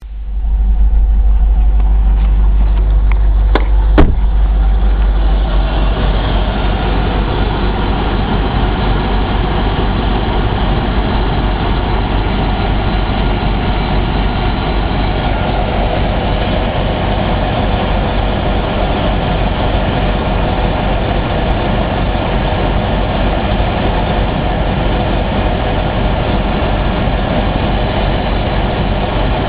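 A 2003 Land Rover Discovery engine running steadily at idle, with a couple of sharp clicks about four seconds in.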